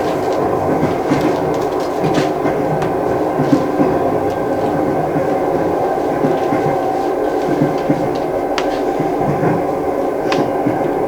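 Moving train carriage: a steady rumble with scattered clicks and knocks.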